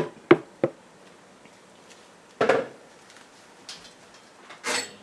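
Cooking utensil clinking against a pot three times in quick succession, then two short, louder splashing sounds, about two and a half seconds in and near the end, as pieces of chicken go into the water in the pot.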